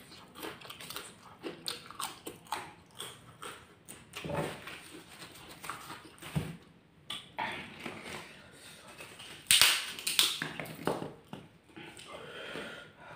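Close-miked eating sounds: chewing and crunching of fried crackers (krupuk) with rice and chili sambal, with wet mouth sounds. Irregular crunches and clicks, the loudest cluster about two-thirds of the way in.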